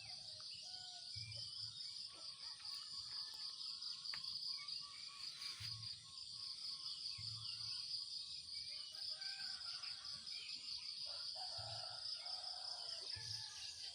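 Steady, high-pitched shrilling of an insect chorus, with scattered short bird chirps over it and a few soft low thumps now and then.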